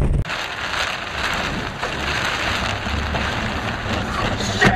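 Heavy rain on a moving car, heard from inside through the windshield, as a steady even hiss, with a short louder burst near the end.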